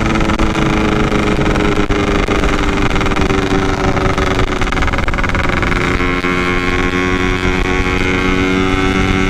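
Yamaha RX-King 135 cc two-stroke single-cylinder motorcycle engine running under way at a steady cruise through its opened-up stock exhaust. The pitch sags slightly midway, then holds steady.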